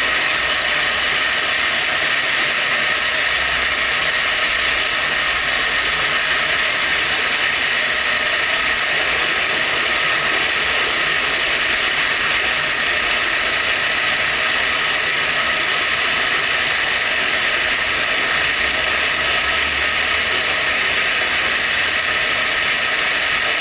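Milling machine running steadily at low spindle speed, taking a cut to open up holes in a steel tooling plate. The sound is a continuous even mechanical noise with a strong high hum.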